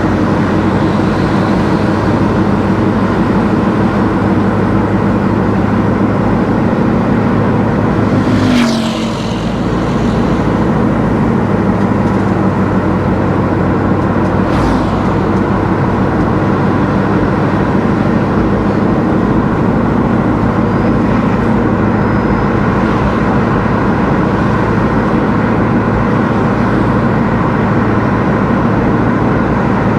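A car being driven on the road: steady engine hum and tyre and road noise. About eight and a half seconds in, the engine note changes and briefly dips. Short sweeping sounds follow near nine and fifteen seconds in.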